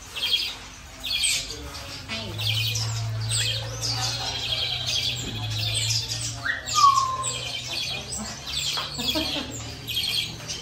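Several pet birds chirping rapidly and continuously, a stream of short high chirps, over a steady low hum that starts about two seconds in.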